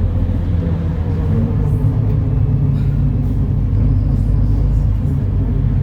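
MAN Lion's City NL293 city bus's inline-six diesel engine running with a steady low drone, with faint light clicks and rattles over it.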